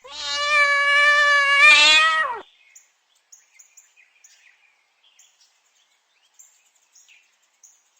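Domestic cat giving one long meow of about two and a half seconds, held at a steady pitch and dropping at the end, followed by faint scattered ticks.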